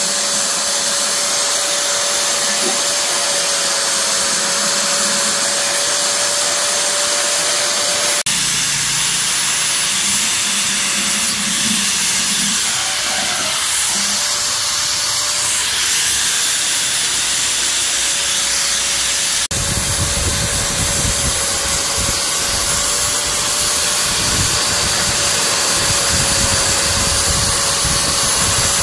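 A motorised tool or blower running steadily: a loud, even hiss with a constant whine, changing abruptly twice.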